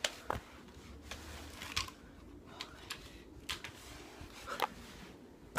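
Scattered light clicks and taps of hands working a toy drone's remote controller, about six over the few seconds. No steady motor sound is heard.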